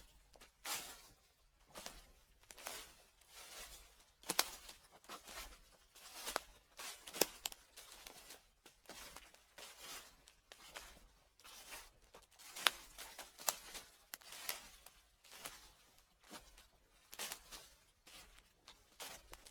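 Footsteps crunching through dry fallen leaves, a crackling step roughly every second, some sharper and louder than others.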